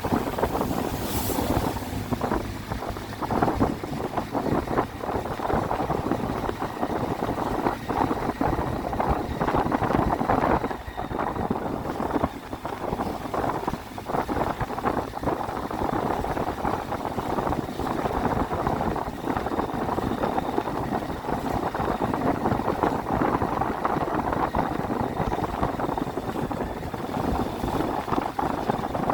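Triumph Tiger 800's three-cylinder engine running under way, mixed with wind noise on the microphone.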